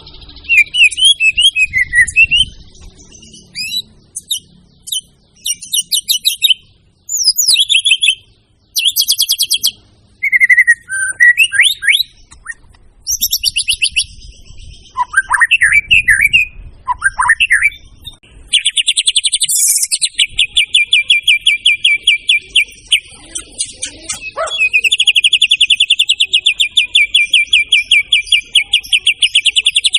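White-rumped shama (murai batu) in full song: a string of varied whistled, sliding and chattering phrases. About two-thirds of the way in, it settles into a long, fast, evenly repeated trill, broken briefly near the end and then resumed.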